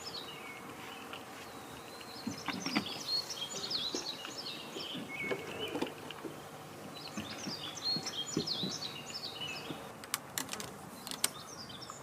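Small songbirds chirping and twittering in quick high runs, in two stretches, with a few sharp clicks near the end.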